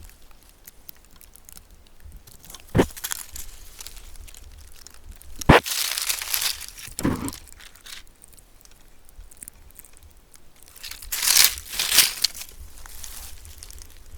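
Crinkling and rustling of handled material, with two sharp knocks about three and five and a half seconds in, and louder bursts of rustling near the end.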